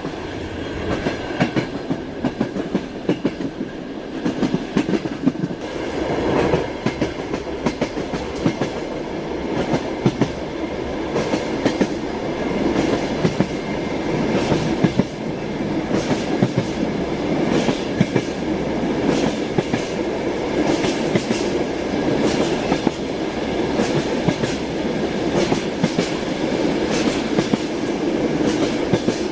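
Passenger train running along the track, heard from inside a carriage: a steady rumble with the clickety-clack of the wheels knocking over rail joints, the knocks coming unevenly throughout.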